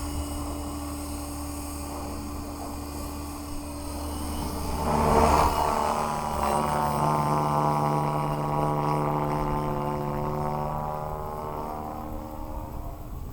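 Align T-Rex 550X electric R/C helicopter in flight, its rotor blades and motor making a steady whine. The whine swells to its loudest about five seconds in as the helicopter passes close, then eases off slowly.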